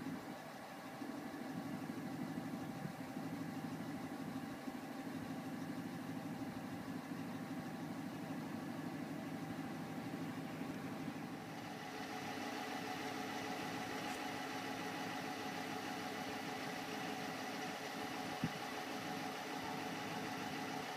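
Police-package 2013 Dodge Charger idling steadily. About halfway through the sound gets brighter, with a higher steady whir added, and there is a single short click near the end.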